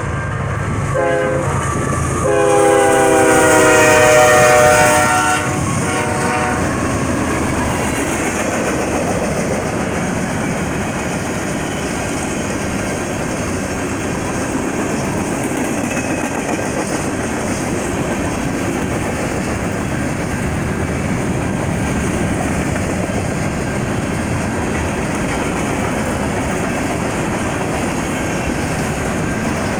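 Freight train's air horn sounding a short blast about a second in, then a long blast of about three seconds, the loudest sound here. After the horn, the steady rolling noise and clickety-clack of freight cars, among them hopper cars, passing over the crossing.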